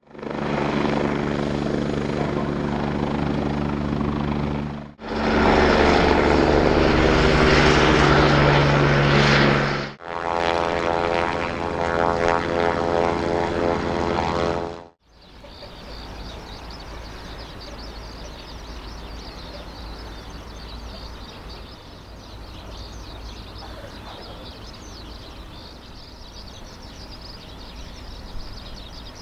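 Kawasaki BK117 helicopter's twin turboshaft engines and four-bladed rotor running loudly in three separate stretches of about five seconds each, with steady whining tones, each cut off suddenly. After about 15 seconds this gives way to a much quieter, steady background noise.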